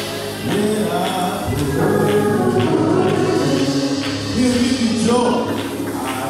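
Live gospel worship music: a choir singing over instrumental backing, with regular percussion strokes.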